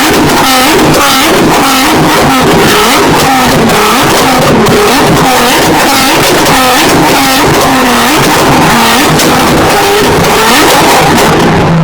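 A car engine revved hard over and over, its pitch swinging up and down about twice a second, with sharp crackles throughout.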